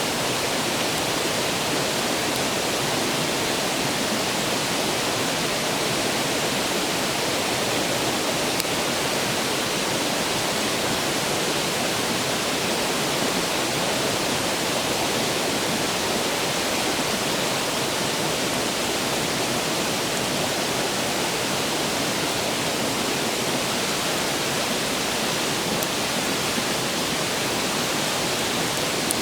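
Steady rushing of a clear, fast-flowing stream, an even noise with no let-up, with a couple of faint ticks from the wood fire.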